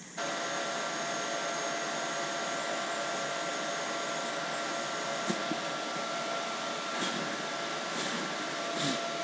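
TIG welding arc on a steel exhaust pipe, struck suddenly at the start and held: a steady hiss with a constant thin whine, and a few faint ticks in the second half.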